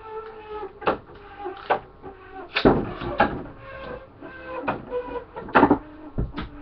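Metal Beyblade spinning tops clashing and rattling in a plastic stadium: a run of sharp clacks at irregular intervals over a shifting whir.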